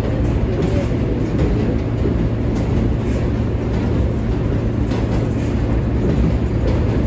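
An R143 subway train running along the track, heard from on board: a steady, loud rumble of wheels on rail and running gear with no let-up.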